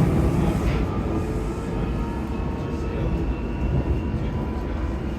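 Inside a moving London Underground Metropolitan line train: the steady rumble of the carriage running on the rails, with faint whining tones above it.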